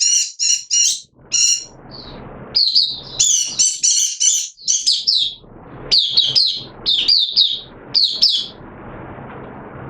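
Caged white-eye (mata puteh) singing a fast, high twittering song in short bursts, several phrases every second. A low rushing noise rises behind it twice, about two seconds in and again near the end.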